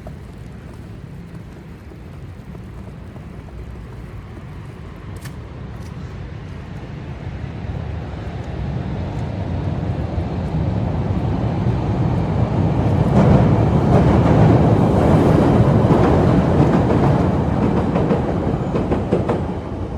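An elevated rapid-transit train passing, its rumble and wheel clatter on the rails building over several seconds to a loud peak, then easing off near the end.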